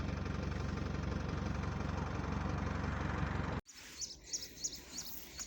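Vehicle engine running steadily with road noise, cut off abruptly about three and a half seconds in. Then a run of short, high bird chirps over a quieter background.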